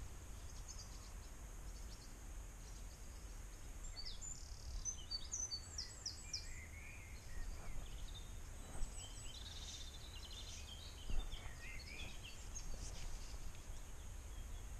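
Wild songbirds chirping and singing in short calls and trills, busiest from about four seconds in, over a low, steady outdoor background noise.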